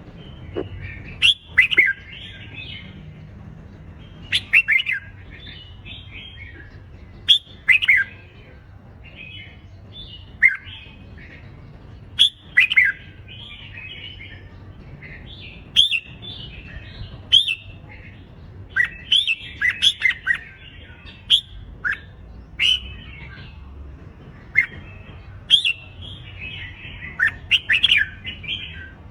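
Red-whiskered bulbul contest song: short, loud warbled phrases with sharp rising and falling notes, repeated every one to three seconds. This is the bulbul's fighting song (hót đấu), used to rouse caged birds into singing.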